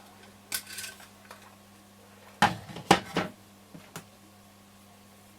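Hand work on a transistor radio and tools on a workbench: sharp clicks and clattering knocks, a single one about half a second in, a quick run of three louder ones around the middle, then two light ticks.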